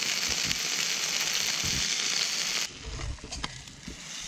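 Chicken breast frying in oil in a small backpacking pan on a gas canister stove: a steady, loud sizzle. It cuts off suddenly about two-thirds of the way through, leaving a few light knocks.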